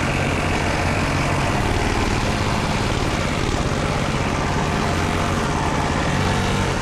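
Engine of a motor vehicle running steadily at an even speed, with a dense rushing noise over it.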